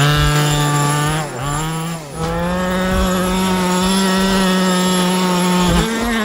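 Turnigy Titan 1/5-scale RC monster truck's 28cc two-stroke gas engine revving high. It dips and picks up twice in the first two seconds, holds a steady high pitch, then climbs once more near the end.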